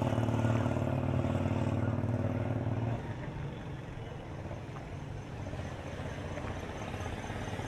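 A motor vehicle's engine running close by, loud for about three seconds and then dropping away suddenly, leaving quieter street background.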